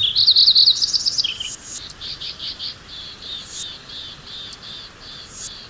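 Birdsong: a quick flurry of high chirps in the first second and a half, then a run of short repeated notes, about three a second.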